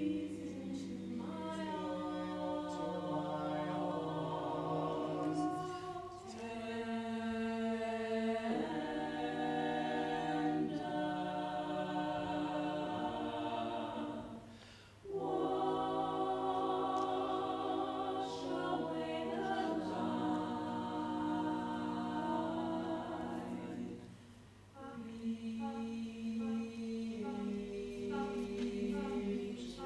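Choir singing a cappella in held chords, phrase by phrase, with a brief breath-pause about halfway through and another near 25 seconds. Late on, some voices sing short repeated notes over the held chord.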